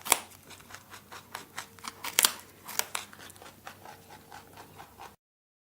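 Rabbit making small, irregular crunching and rustling sounds, like chewing food or moving about in bedding, several soft clicks a second. The sounds cut off suddenly about five seconds in.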